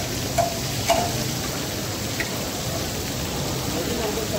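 Liver pieces sizzling steadily in oil on a large flat tawa, with a few sharp metallic clinks of the steel spatula against the pan in the first couple of seconds.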